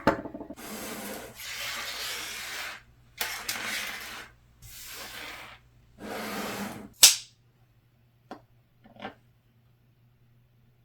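Duct tape being pulled off the roll in four rasping pulls, the first about two seconds long, then a sharp snap about seven seconds in and two light clicks.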